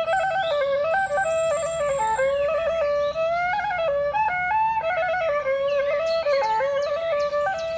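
Traditional Khmer wind-instrument music: a single woodwind melody moves between held notes, decorated with quick trills and slides.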